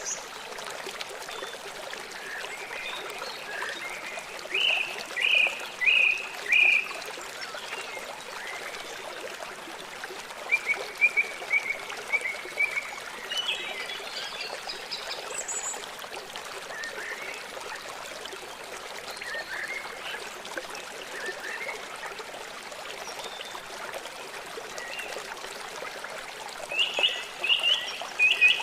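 Small songbirds chirping in short runs of repeated notes over the steady rush of a trickling stream. A loud group of four chirps comes about five seconds in, another run follows around eleven seconds, and a further burst comes near the end.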